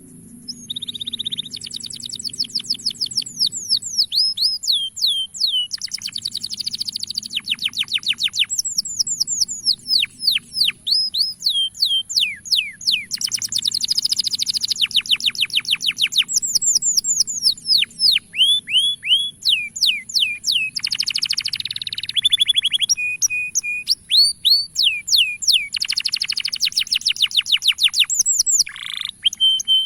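Male canary singing: long phrases of rapid repeated notes and trills, many sliding down in pitch, changing tour every few seconds with brief pauses between.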